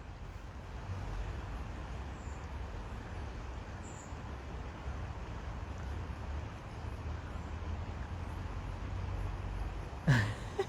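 Steady outdoor background noise: an even rushing hiss over a fluctuating low rumble, with a short falling vocal sound near the end.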